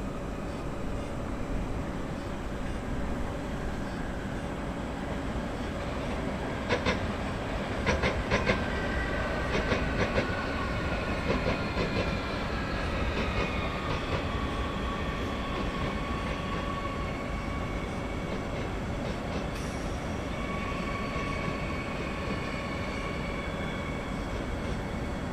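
A train moving on the tracks, its wheels clacking over rail joints and points in a run of sharp clicks around the middle, with a steady rumble. A high whine falls in pitch, then settles into a steady tone near the end.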